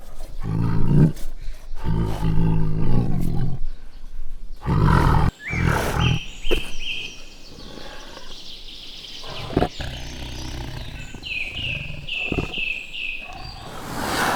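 A large animal's deep, pulsing calls in the first five seconds. After a sudden break come several short, high-pitched chirps.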